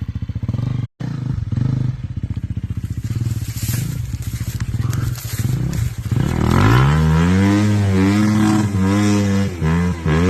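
Dirt bike engine chugging at low revs, then from about six seconds in revving up and down repeatedly as the throttle is worked, with a brief cut in the sound about a second in.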